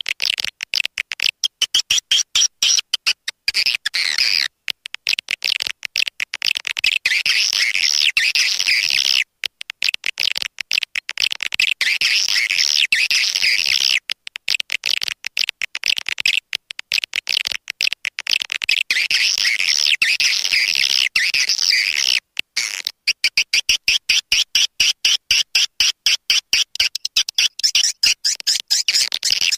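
Swiftlet lure call: dense, rapid chattering twitter of swiftlets, high-pitched, in runs of several seconds with short breaks. This is a recorded call of the kind played to draw swiftlets into a nesting house.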